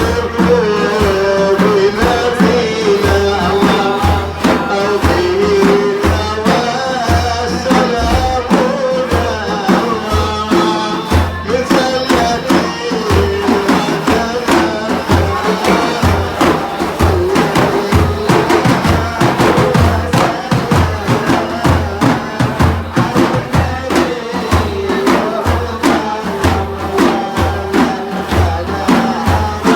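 Sufi devotional music: hand drums beating a steady rhythm, about two strokes a second, under a long, wavering melodic line.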